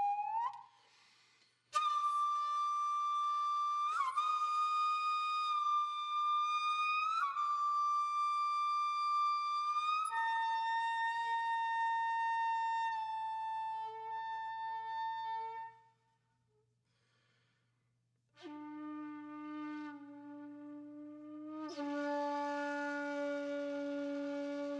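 Background music: a solo flute playing slow, long held notes, each sliding up into its pitch. The notes stop briefly about two-thirds of the way through, then return lower.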